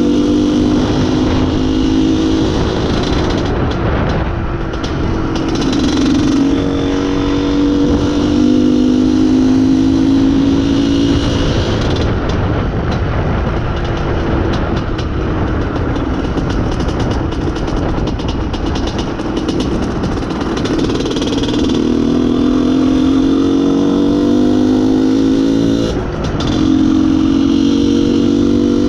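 IZh Planeta Sport single-cylinder two-stroke motorcycle engine heard while riding, its pitch climbing under throttle and dropping several times as it goes through the gears, with steady wind and road noise. About three seconds before the end there is a brief dip and a click at a gear change.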